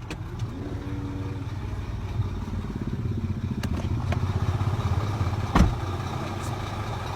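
A motor vehicle engine running steadily with an even low throb, and a single sharp knock about five and a half seconds in.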